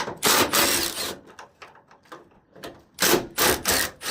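Hand-tool work on a pickup's front end: several bursts of scraping and rubbing, with a few short clicks between them, as screws are worked out.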